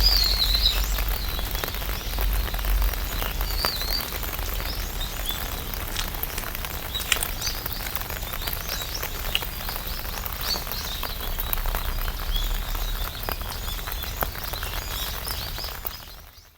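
Raindrops falling on an open umbrella, an even wash of rain with many separate drops tapping on the canopy, over a low rumble. Birds chirp now and then in the background, and the sound fades out near the end.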